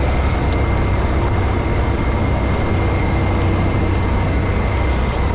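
Motorcycle at road speed: a steady low engine drone under loud wind rush, with a faint steady whine on top.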